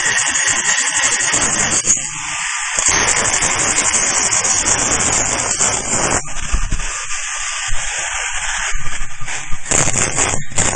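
Continuous rapid crackling rattle of metalworking on a weld, with short irregular breaks in its lower part around two and seven seconds in.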